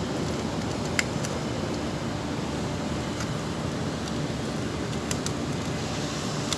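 Steady low background rumble, with a few light clicks about a second in and again about five seconds in.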